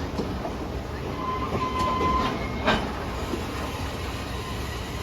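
Freight train of covered hopper cars rolling past with a steady low rumble and wheel clicks, a brief steady wheel squeal a little after a second in, and one sharp metallic clank just past the middle.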